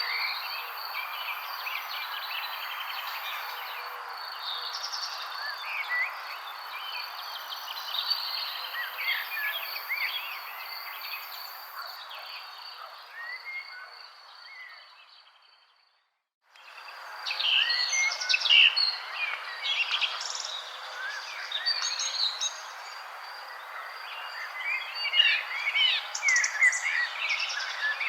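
Many birds chirping and calling over a steady background hiss and a steady high buzz. About fifteen seconds in, the whole ambience fades to silence, then cuts back in a second later with livelier chirping.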